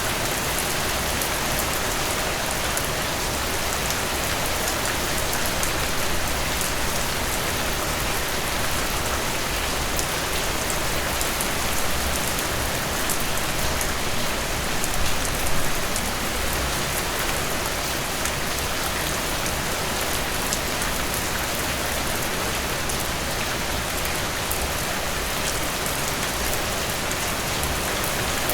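Heavy rain falling steadily, a dense, even hiss of drops striking surfaces with no break.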